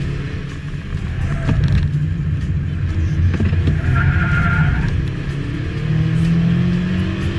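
Mazda MX-5 engine and road noise heard inside the cabin during circuit driving, a steady drone with the engine note rising near the end as the car accelerates.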